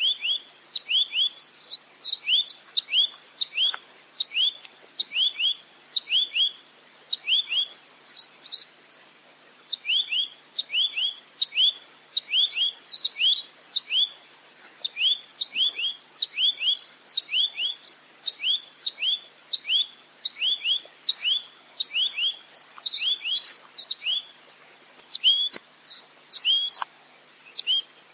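Rambatan (nuthatch) song: quick runs of short, sharp downslurred chips, several a second, coming in bursts with brief pauses, with a few higher notes mixed in.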